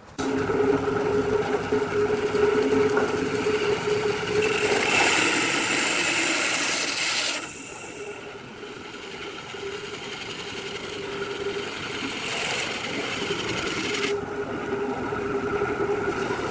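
Electric woodworking machine running with a steady motor hum under a loud hiss of wood being cut. The hiss eases off about seven seconds in and gradually builds again.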